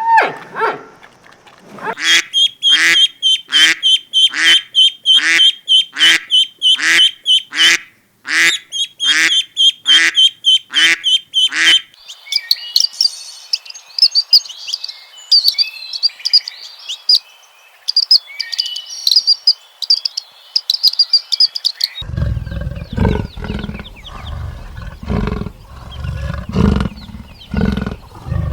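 A run of animal calls: about twenty loud, quacking calls, roughly two a second, for about ten seconds; then birds chirping and twittering for ten seconds; then, from about 22 seconds in, a large animal's deep, rhythmic calls.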